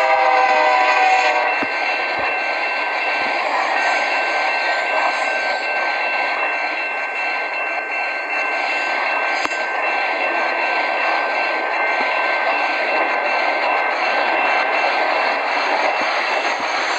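Freight train passing: a horn blast ends about a second in, then the steady noise of wagons rolling by, with a thin high steady whine above it.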